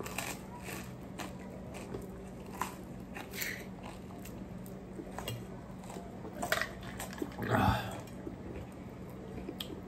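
Close-up eating sounds: chewing bread, with soft mouth clicks and sips from a cup, over a steady low hum. A brief voiced murmur comes about three quarters of the way through.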